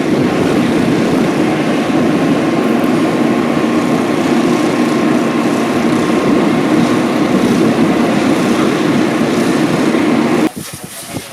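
A large engine running steadily at close range, cutting off suddenly about ten and a half seconds in.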